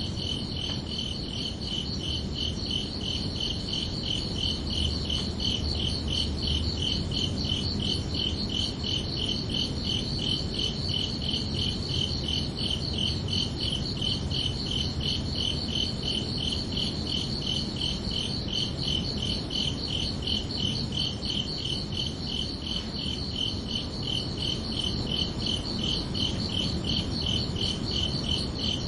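Crickets chirping in a steady, even rhythm of high-pitched pulses, with a faint low rumble beneath.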